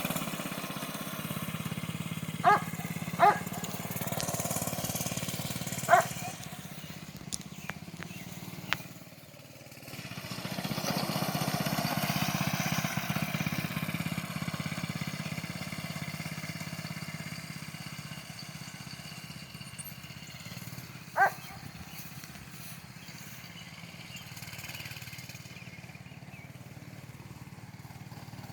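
Small 98cc gasoline engine of a mini bike running as it is ridden, swelling louder twice and then fading as it moves away. A few short, sharp high chirps stand out above it.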